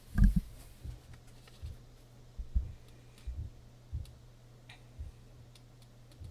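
Muffled banging from demolition work in another part of the house: a string of short, dull thuds about once every second, the loudest just after the start.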